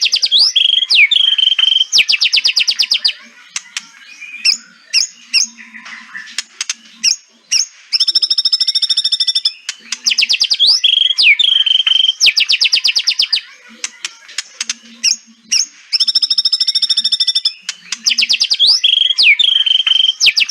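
White-rumped shama (murai batu) giving its 'kretekan' rattle: rapid clicking rattles about a second long alternate with short whistled notes and quick sliding calls, in a phrase that repeats over and over. This is the agitated rattle call that keepers play as a lure to provoke a silent shama into singing.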